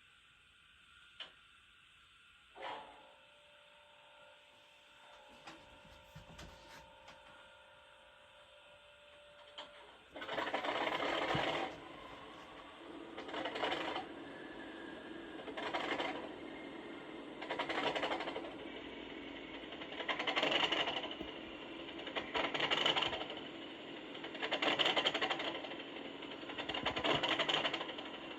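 Accurascale OO gauge Class 37's DCC sound chip playing a cold engine start through the model's small speaker. A faint steady tone and a few clicks come first. About ten seconds in, the English Electric diesel starts turning over in rhythmic surges roughly every two seconds, labouring cold and not yet running.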